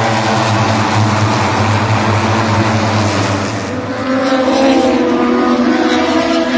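Loud 1000 cc MotoGP race bikes running at high revs on the circuit, the engine pitch rising from about four seconds in as one accelerates.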